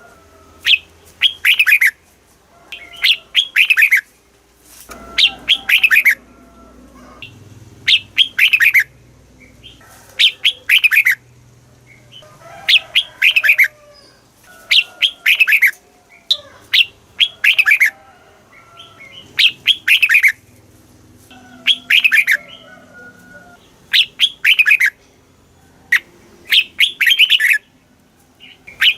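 Red-whiskered bulbul singing: loud short phrases of a few quick falling notes, repeated about every two seconds, with softer chatter in between.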